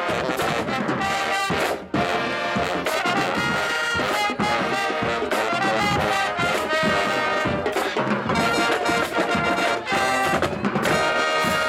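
Marching band playing, brass section of trumpets and trombones over drums, with a brief break in the sound about two seconds in.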